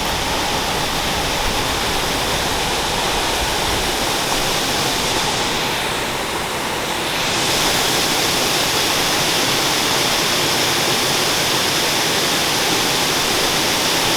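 Waterfall pouring into a pool: a loud, steady rush of falling water, rising a little in loudness about halfway through.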